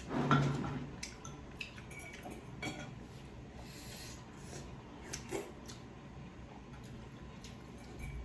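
Eating sounds at a table: small clicks of cutlery against a plate and soft chewing. A short, louder burst of sound comes right at the start.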